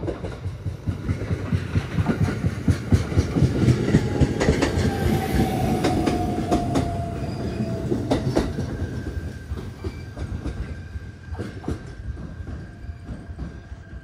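A train running along the track, its wheels clacking rhythmically over the rail joints. It grows loud over the first couple of seconds and fades in the second half, with a whine that falls slowly in pitch midway.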